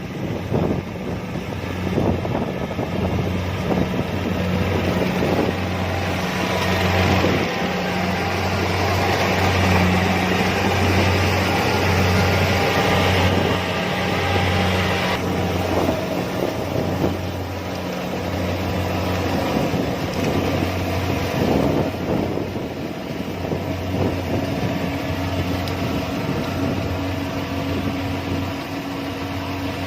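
Kubota DC-70 Plus combine harvester running while harvesting rice: a steady low diesel drone under a broad rushing hiss, the hiss growing louder from about six to fifteen seconds in.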